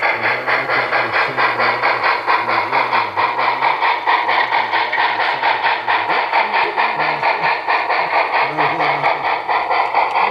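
A steady, fast, evenly paced mechanical clatter over a hiss, with faint voices talking underneath.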